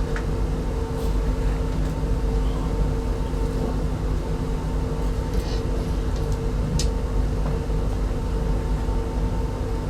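Interior running noise of an RZ25T passenger coach on the move: a steady low rumble with a constant hum. A few faint clicks or squeaks come about a second in and again around five and seven seconds in.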